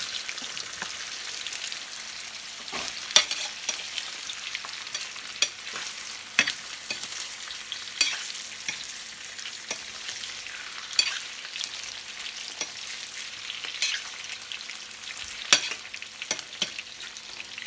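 Boiled potato and carrot pieces frying in hot oil in a pan: a steady sizzle broken by frequent sharp pops and clicks, with the louder knocks of the vegetables being stirred or turned.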